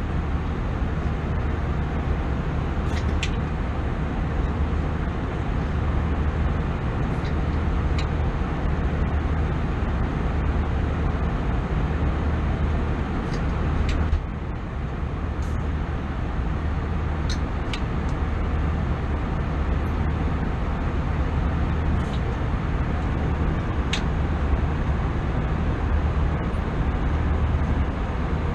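Steady cabin noise inside an Airbus A320 airliner: a constant low engine and airflow rumble, with a few faint small clicks and a brief dip in level about halfway.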